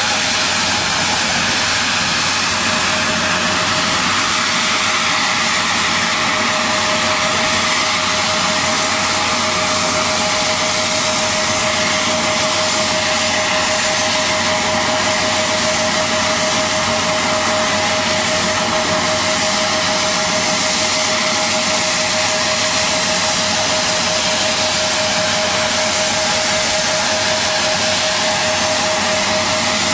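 Steady machinery noise from aircraft de-icing: a constant rushing roar with a single unchanging whine, holding level throughout.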